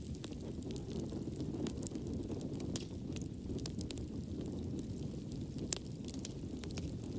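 Wood fire burning in a fireplace: a steady low rumble of flames with scattered crackles and pops, one sharper pop about six seconds in.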